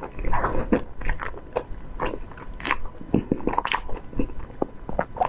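Close-miked eating sounds of a person chewing a bite of soft, powdered pink cake: irregular wet smacks and clicks of the lips and mouth, several a second.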